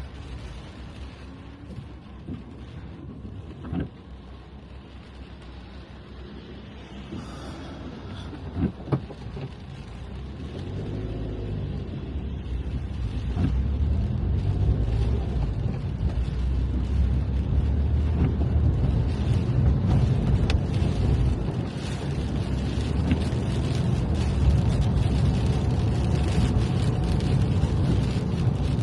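Car driving on wet roads, heard from inside the cabin: a low engine and tyre rumble that grows louder from about a third of the way in, with a couple of short knocks before that.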